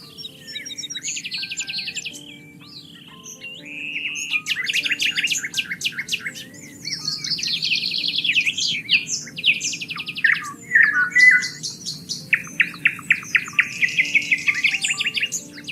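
Several songbirds singing at once: fast trills, quick runs of repeated chirps and short whistled notes overlap throughout. Soft, steady low tones sound beneath them.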